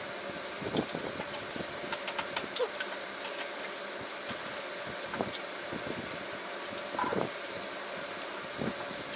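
Close-miked chewing and wet mouth sounds of someone eating chewy grilled chicken-heart skewers, with many small scattered clicks, over a steady background hum and hiss.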